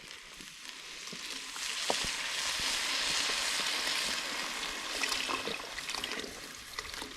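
Beef broth hitting a hot pot of browned beef and vegetables: a sizzling hiss that swells about a second in and slowly dies down, with a few small clicks.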